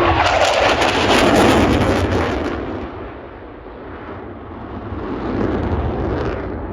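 Jet roar from a Eurofighter Typhoon's twin turbofans as the fighter passes, loudest and crackling for the first couple of seconds. It then eases and swells again near the end.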